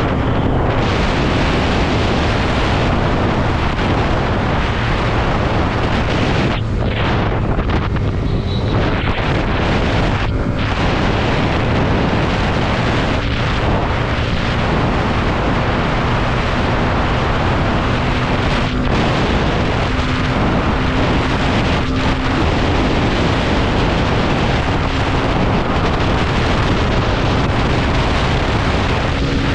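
Loud, steady wind buffeting on the microphone of a moving motorcycle, with the faint running note of the Hero Xtreme 125R's single-cylinder engine underneath.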